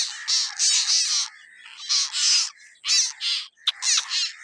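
Asian koel chicks giving a run of harsh, rasping, crow-like begging calls, about two a second.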